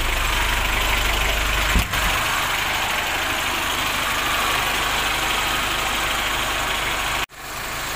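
A car engine idling with the air-conditioning running while R-134a refrigerant is charged in: a steady rushing noise over a low hum. There is a short knock about two seconds in, and the sound cuts out for an instant near the end.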